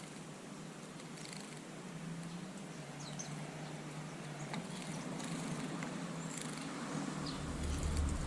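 A low, steady rumble that swells louder near the end, with a few faint, short, high bird chirps over it.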